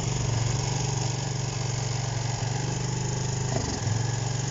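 Honda CB125 motorcycle engine ticking over steadily without the choke, running on petrol mix from a fuel bottle. The idle wavers briefly about three and a half seconds in.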